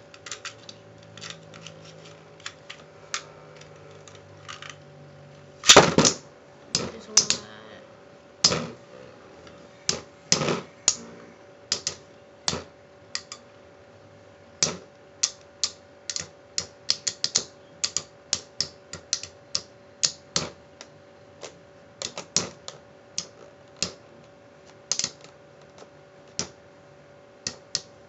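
Two metal-wheeled Beyblade tops, Lightning L-Drago and Pirate Kraken, spinning in a stadium. A faint whir at first, then a loud clash about six seconds in, followed by a long, irregular run of sharp clicks and knocks as the tops collide again and again.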